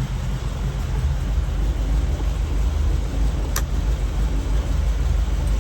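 A 1949–1953 Ford flathead V8 idling steadily with a low rumble, and a single sharp click about three and a half seconds in.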